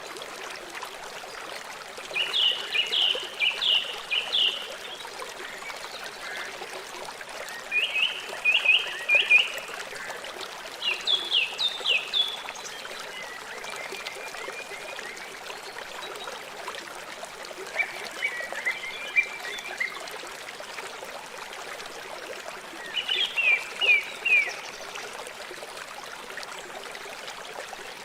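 A river running steadily with a constant rush of water. Over it, short bursts of rapid high chirping calls come every few seconds, about six times.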